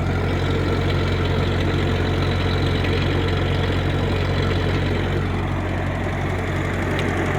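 1956 Ferguson F40 tractor's four-cylinder gasoline engine running steadily at idle, shortly after a choked cold start.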